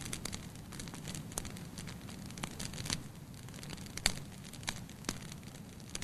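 Wood fire crackling in a fireplace: irregular sharp pops and snaps over a low, steady rumble of flames, the loudest pop about four seconds in.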